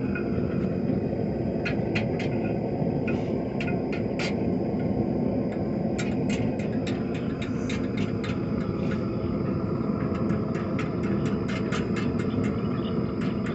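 Series of light hammer taps on a hot mild-steel rod as its curl is shaped, several a second, over the steady rumble of a propane gas forge.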